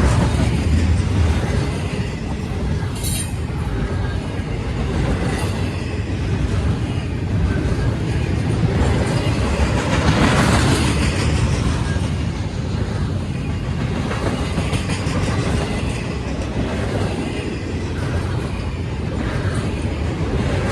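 A train rolling past on the rails: a steady low rumble of wheels and cars, with a sharp click about three seconds in and a louder surge around ten seconds.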